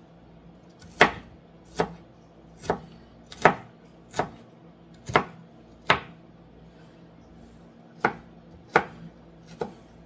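Knife dicing an onion: about ten separate chops, a little under one a second, with a pause of about two seconds in the middle.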